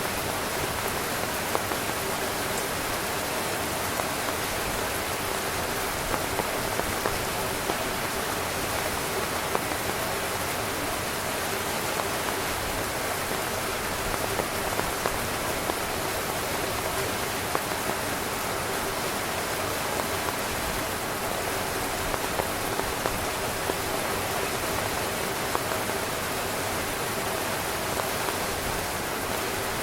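Steady heavy rain drumming on a tent's fabric, a dense hiss with frequent individual drop taps standing out.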